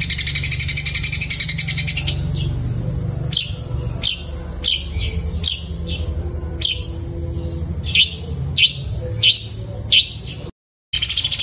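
Long-tailed shrike (cendet) singing its mimicry of fighting house sparrows: a fast, high chattering trill for about two seconds, then a string of single harsh chirps about twice a second, with the fast trill starting again near the end after a brief cut-out. A steady low hum lies underneath.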